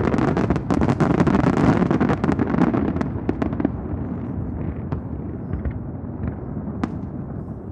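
Aerial fireworks bursting: a dense run of bangs and crackle over a deep rumble for about the first three seconds, then thinning to scattered sharp reports.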